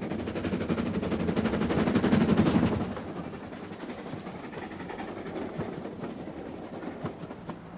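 A train running past with a rapid rhythmic clatter, loudest about two seconds in, then fading away.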